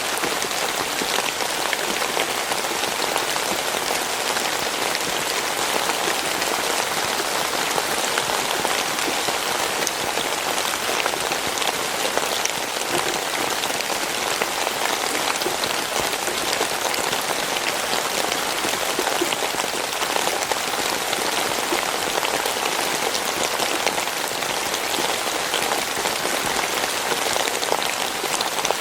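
Steady rain falling: an even hiss of countless drops with fine pattering specks, unchanging throughout.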